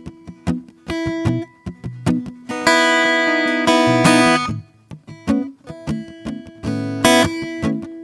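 Acoustic guitar played slowly in an improvised style: single plucked notes and short phrases, with a couple of full strummed chords left ringing, one about two and a half seconds in and another about seven seconds in.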